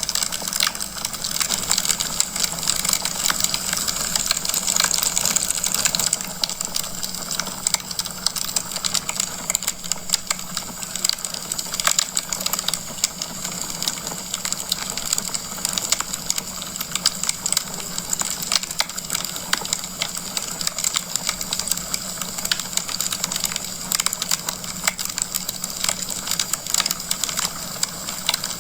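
Wood fire crackling in a fireplace: a dense run of small pops and snaps over a steady hiss, a little louder for the first few seconds.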